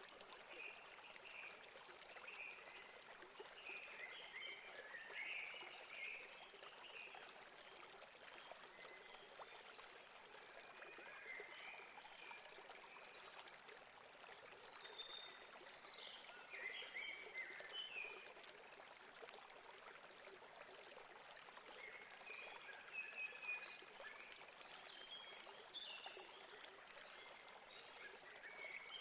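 Faint, steady rush of a flowing stream, with short bird chirps scattered over it now and then.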